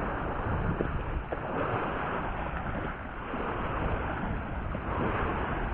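Kayak moving on river water: a steady wash of water and wind noise on the microphone, swelling and easing.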